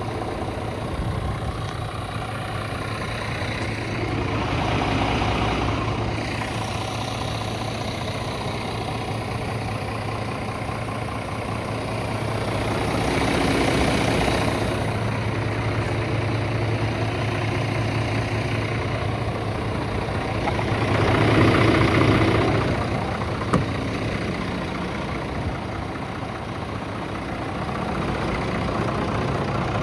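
Scania R450 truck's 13-litre six-cylinder diesel engine idling steadily, swelling a little louder three times.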